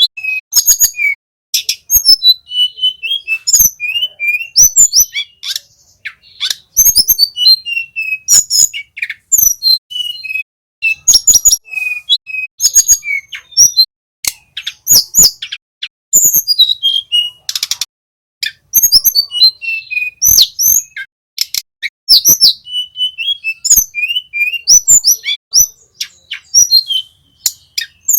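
Tledekan gunung, a small flycatcher, singing a loud, fast run of chirps, trills and whistled notes in phrases broken by short pauses.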